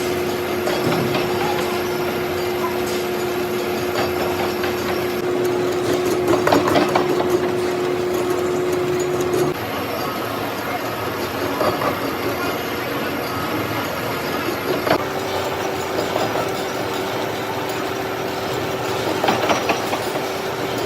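Workshop machinery running with a steady hum, over a busy mechanical noise with scattered short knocks. The hum cuts out about halfway through and comes back a little higher in pitch a few seconds later.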